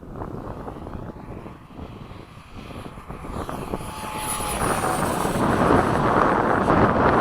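FMS 70 mm electric ducted-fan F/A-18 model jet flying, its fan rushing and whining; the sound swells much louder in the second half as the jet passes close, with a thin falling whistle around the middle.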